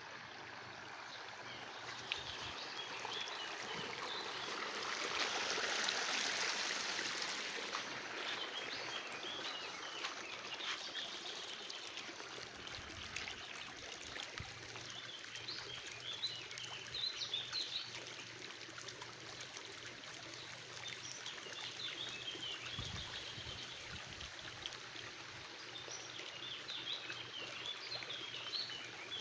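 Running water, a small stream or trickle, with small birds chirping in short twittering phrases over it. The water grows louder for a few seconds near the start, then settles.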